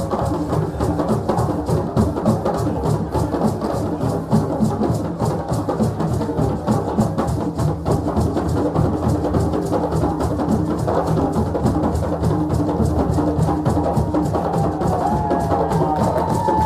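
West African drums playing a fast, dense rhythm of many overlapping strikes. A wavering high tone joins in near the end.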